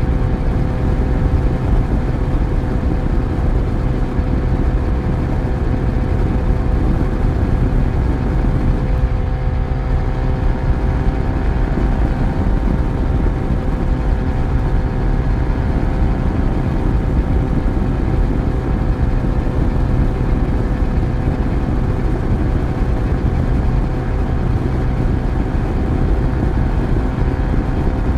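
Yamaha FZ1's inline-four engine running at steady revs while the motorcycle is ridden, under a constant rush of wind and road noise.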